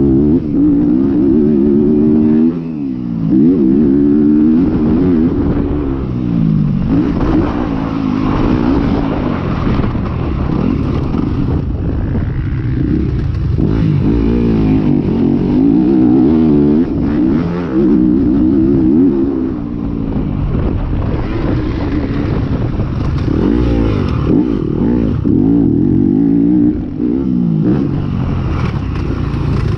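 450-class motocross bike engines racing, revving up and falling back over and over as the riders accelerate and back off around the track.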